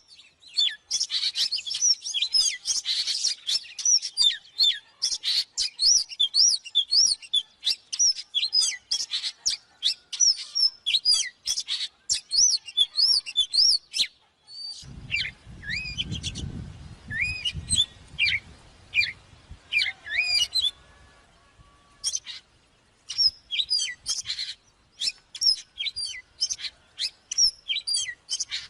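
Oriental magpie-robin singing a rapid run of varied, sweeping whistled notes. About halfway through there is a short break, then a low rumble for a few seconds as the song picks up again, sparser and with pauses.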